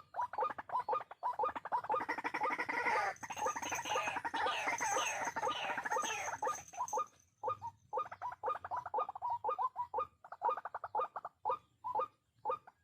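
White-breasted waterhen calls: rapid repeated notes, several a second. For several seconds in the middle they thicken into a dense overlapping chorus with rising-and-falling strokes, then return to the spaced repeated notes.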